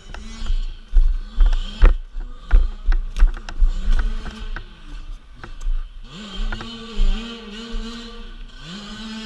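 Dirt bike engine running on a trail, its revs rising and falling, with repeated low thumps through the first part. From about six seconds in the engine holds a steadier note with small rev wobbles and a short dip near the end.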